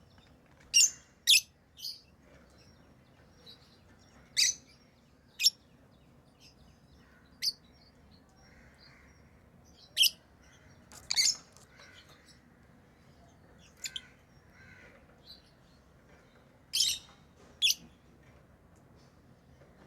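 Pet lovebirds giving short, shrill, high-pitched chirps, singly and in quick pairs, with quiet gaps of a second or more between them.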